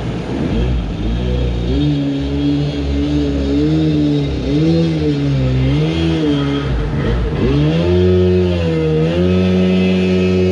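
Jet boat engine revving up and down over and over, then holding at higher revs from about eight seconds in, as the grounded boat is worked free.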